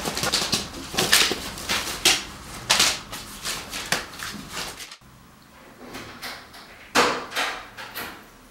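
Frantic rummaging through drawers and a wardrobe: a quick run of paper rustles and light knocks as sheets are tossed out. About halfway through it drops much quieter, with a few short rustling noises later on.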